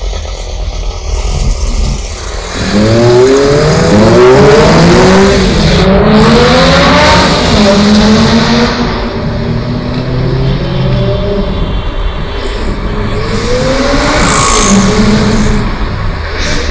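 Lamborghini Gallardo's V10 engine accelerating hard through the gears, its pitch rising in repeated sweeps of about a second each, heard over steady road noise. The strongest run of revs starts a few seconds in, with more bursts about midway and near the end.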